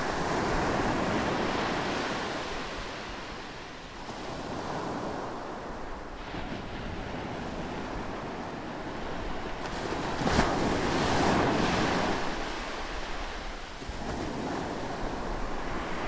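Rough sea surging in and breaking against a rocky shore, the roar swelling and ebbing with each wave, loudest at the start and again about ten seconds in, where one wave hits with a sharp crash. Wind buffets the microphone underneath.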